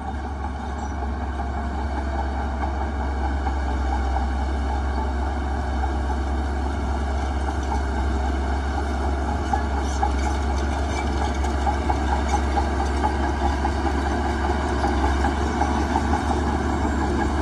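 Heavy diesel engine of earthmoving machinery running steadily with a deep hum, getting a little louder over the first few seconds, with light clatter in the second half.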